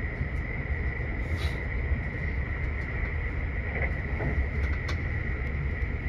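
Kintetsu Hinotori limited-express train running at speed, heard from inside the passenger cabin: a steady low rumble of wheels on the track with a steady high whine over it and a few faint clicks.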